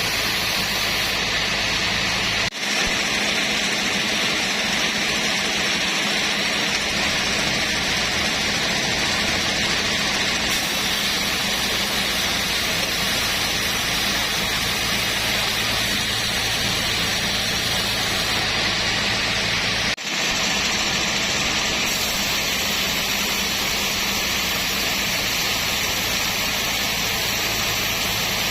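Sawmill machinery running steadily: a constant loud hiss over a low hum, dropping out for an instant twice.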